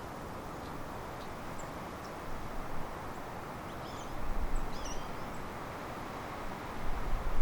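Outdoor ambience: a steady hiss of background noise with a few faint, short bird chirps around the middle, and a low rumble rising near the end.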